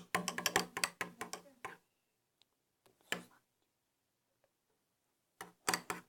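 Stirring a homemade slime mix of liquid soap, shampoo and salt with a kitchen utensil: quick runs of scraping clicks for about two seconds, a few faint ticks, then stirring again near the end.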